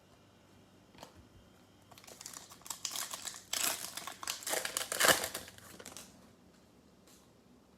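Plastic wrapper of a football trading-card pack crinkling and tearing as it is opened: a run of rustles from about two seconds in to about six, loudest near five seconds.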